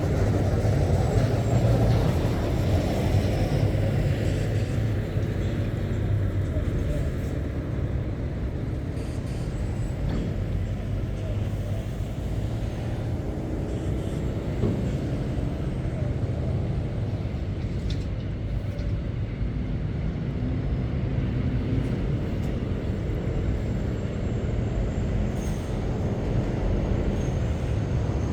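Diesel engines of heavy goods lorries running as they pass, a steady low rumble that is loudest in the first few seconds.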